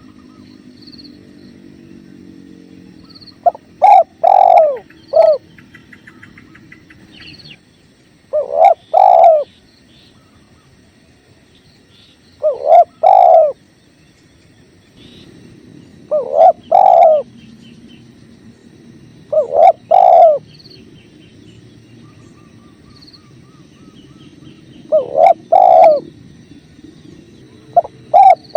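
Spotted dove (tekukur) cooing: loud phrases of three or four hollow notes, repeated about every three to five seconds, seven times in all. Faint steady running water underneath, with scattered faint chirps of smaller birds.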